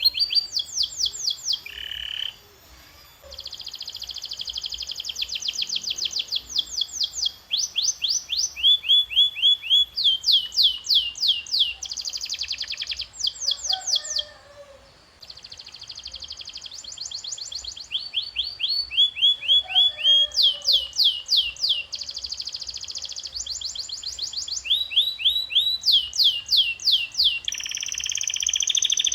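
Canary singing a long song made of rapid trills. Each trill is a fast run of repeated, downward-sweeping notes, and the note type changes every second or two. There are two short pauses, about three seconds in and about halfway through.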